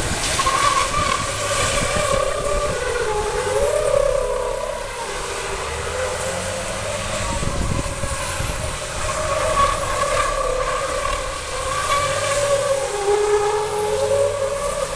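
Large truck engines running and revving, their pitch rising and falling over a steady rumble.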